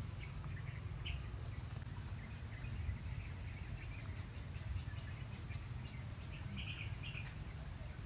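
Small birds chirping now and then in short bursts, over a steady low rumble of outdoor background noise.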